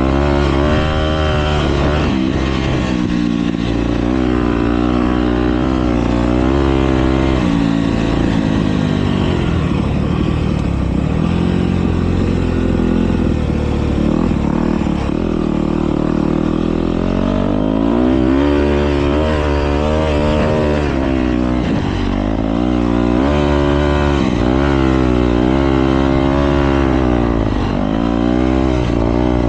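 Motocross bikes racing, their engines revving up and falling back again and again as they work around the track, more than one engine heard at once.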